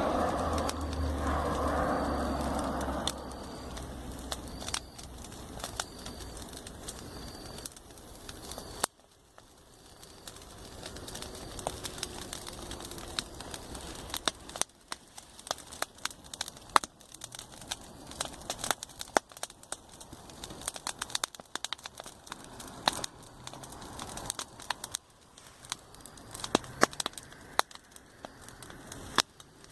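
Campfire crackling, with many sharp pops of burning wood. A louder low rumble runs through the first three seconds, then fades out.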